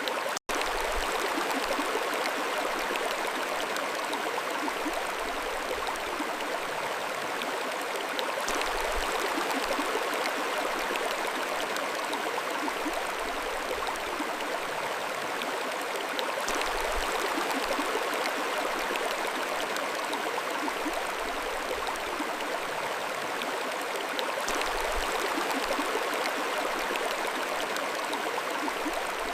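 Mountain stream flowing over rocks: a steady rushing and babbling of water, with a momentary dropout about half a second in.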